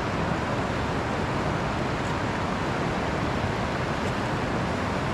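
Steady rush of a river's flowing water: an even, unbroken noise.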